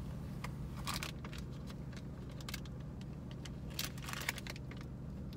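Parked car's engine idling with the air conditioning running, heard from inside the cabin as a steady low hum, with a few faint clicks over it.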